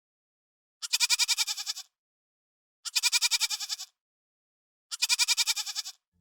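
Goat bleating three times, about two seconds apart. Each bleat lasts about a second and has a fast, even quaver.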